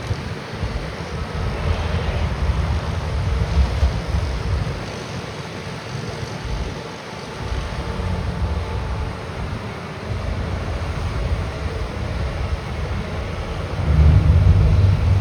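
Diesel engines of Deere motor graders running as they work snow, a low rumble that rises and falls and swells louder near the end, mixed with wind buffeting the microphone.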